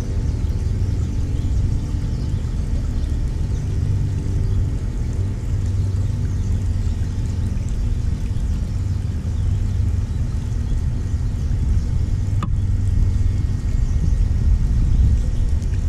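A steady low mechanical rumble with a faint hum, like a running engine, and a single sharp click about twelve seconds in.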